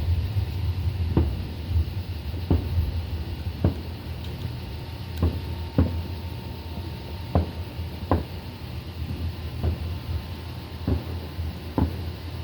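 A series of dull, sharp thumps, roughly one a second and unevenly spaced, over a steady low rumble.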